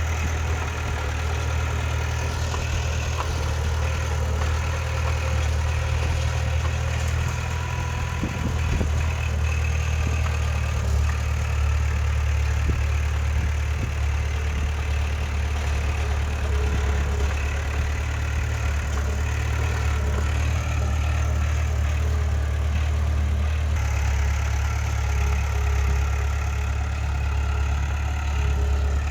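Heavy earthmoving machine's diesel engine running steadily with a deep, even hum, with a few faint knocks about eight or nine seconds in.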